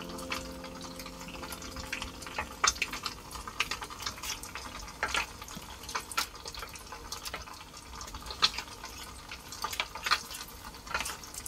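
Irregular clicks, taps and scrapes of a table knife and hands working on a wooden cutting board, spreading sauce on a brioche bun and handling lettuce while assembling a sandwich.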